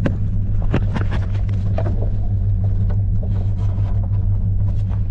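Steady low engine and road rumble inside the cabin of a Chevrolet Suburban on the move, with a few light clicks and rattles over it.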